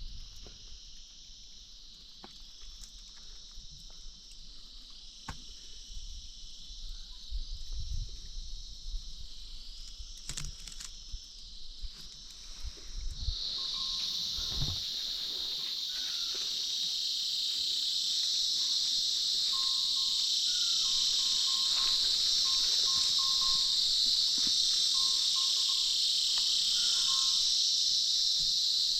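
Steady chorus of insects shrilling, which becomes markedly louder about halfway through. Low thumps of wind or handling noise sound in the first half.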